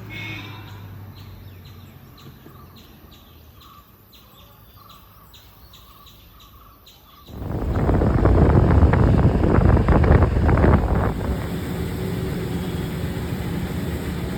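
Birds chirping with short calls repeated a couple of times a second over a quiet road. About halfway through, loud wind and riding noise from the motorbike ride cuts in suddenly, strongest for the first few seconds, then continues steadily.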